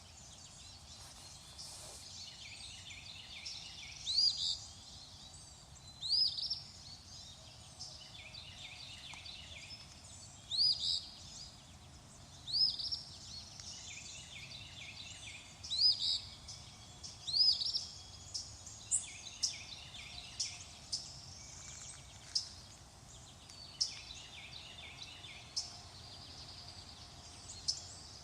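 Songbirds calling over a faint steady background: a rising whistle repeated every two seconds or so, mixed with chattering trills, and in the second half short sharp chips about once a second.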